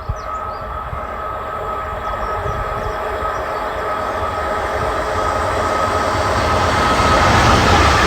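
Freight train approaching, growing steadily louder: a low rumble with a steady high whine over it.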